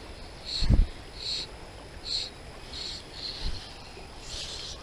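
A cricket chirping in a steady rhythm, about one short high chirp every three-quarters of a second. A dull low thump comes just under a second in, and a fainter one about three and a half seconds in.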